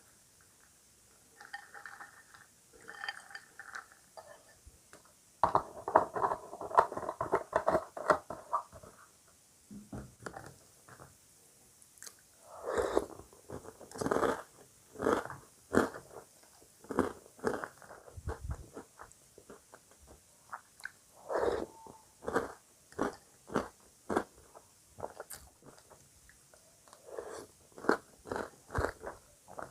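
Crunchy breakfast cereal being bitten and chewed close to the microphone. A dense run of loud crunches comes a few seconds in, then steady chews about one a second.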